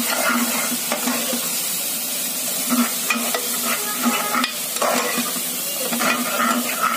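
Onions and garlic frying in hot oil in a metal pressure cooker, sizzling steadily, while a metal ladle stirs them and scrapes against the pot several times.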